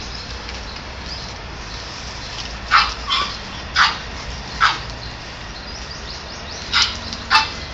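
Short, sharp animal calls, six of them: four close together in the middle and two more near the end.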